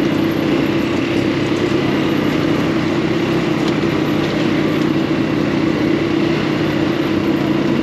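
Off-road buggy engine running steadily at an even speed, a loud, constant drone.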